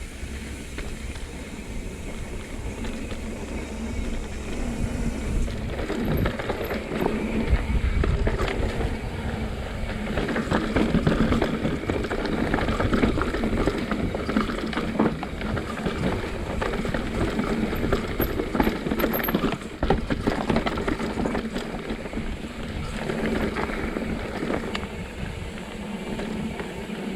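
Mountain bike rattling down a rough, rocky trail: tyres crunching over dirt and rocks, with constant clicks and knocks from the frame and chain and wind on the microphone. The rattling picks up about six seconds in.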